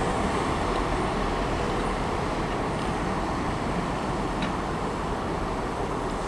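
Steady low rumble of a train at a station platform, easing off slightly.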